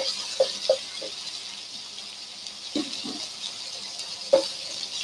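Prawns frying in oil with blended garlic and shallots: a steady sizzle, with a few short knocks on the pan, the loudest about four seconds in.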